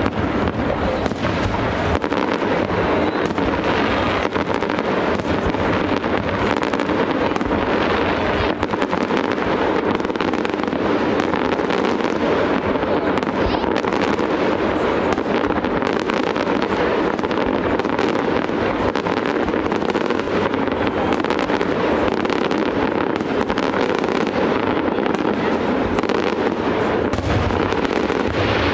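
Aerial fireworks display: a continuous barrage of shell bursts, many bangs overlapping into a dense, unbroken rumble with no pauses.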